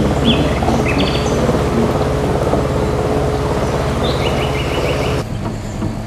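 Small birds chirping and calling in short, quick phrases over a steady low hum, which drops away abruptly about five seconds in.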